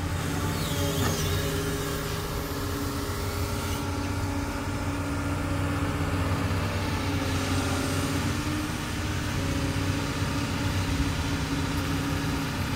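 Doosan DX200 excavator's diesel engine running steadily.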